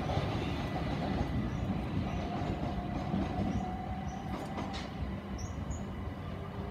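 Southern Class 377 Electrostar electric multiple unit pulling away, the rumble of its wheels on the track fading as it draws off, with a steady whine for about two seconds midway.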